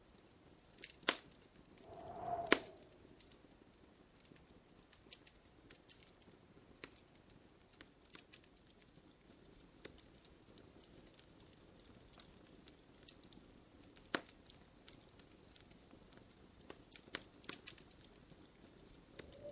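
Wood fire crackling, with scattered sharp pops, the strongest about a second in, two and a half seconds in and near the middle. A dove coos once about two seconds in.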